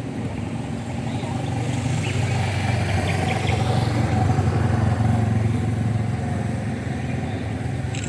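A motor vehicle's engine humming steadily, growing louder toward the middle and then easing off.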